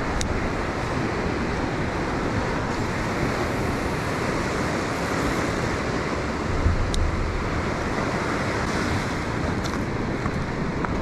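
Steady wash of ocean surf breaking on a rocky shore, with some wind, and a few faint ticks.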